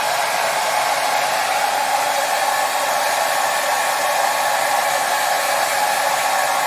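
Hair dryer running steadily: an even, unbroken whoosh of blowing air with a faint steady motor hum, strongest in the mid range.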